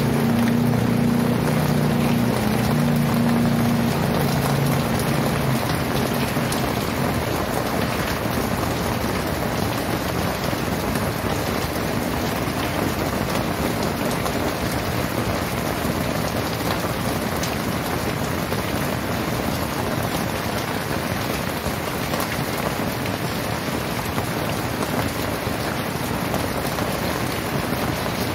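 Very heavy rain pouring down in a dense, even hiss of drops. A low hum underneath fades out over the first five seconds.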